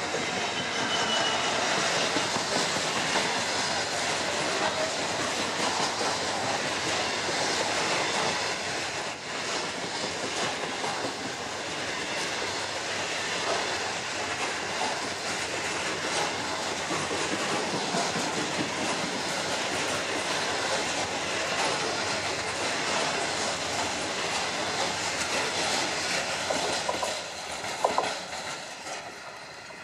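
Freight train of bogie hopper wagons passing close, its wheels clattering along the rails in a steady rattle. The sound fades near the end as the last wagons pull away.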